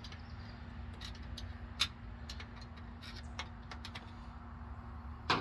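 Scattered light clinks and taps of hand tools and metal parts being handled while working on a truck's rear brake drum, with a sharper knock just before the end, over a steady low hum.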